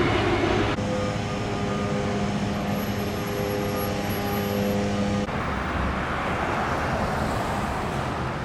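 Street traffic noise from passing vehicles. A steady, droning, multi-tone hum sits over it, starting about a second in and cutting off abruptly about five seconds in.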